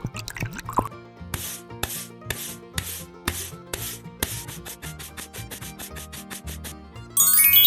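Repeated scraping strokes like sanding, about two a second at first and then quickening to about four or five a second, over faint background music. A rising glide sounds near the end.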